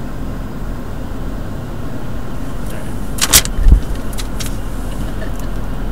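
Car engine idling steadily, with a sharp click and a low thump a little past the middle.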